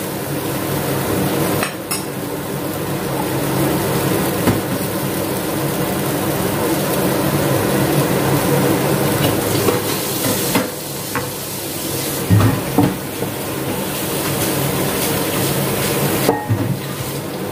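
Wood ear mushrooms sizzling as they are stir-fried in a pan, with a spatula scraping and stirring. A few sharp knocks of the spatula against the pan, the loudest about two-thirds of the way through.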